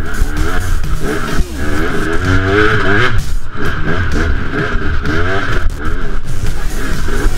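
Enduro motorcycle engine revving up and down over and over as the bike is ridden along a rough woodland trail, heard close up from a camera mounted on the bike.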